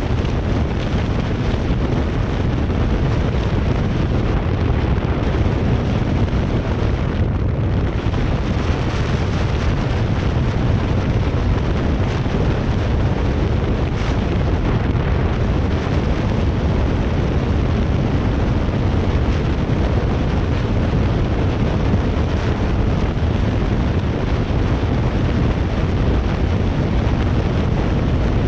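Heavy wind noise buffeting the camera's own microphone while riding: a loud, steady rumble that is heaviest at the bottom and thins toward a hiss, with nothing else standing out.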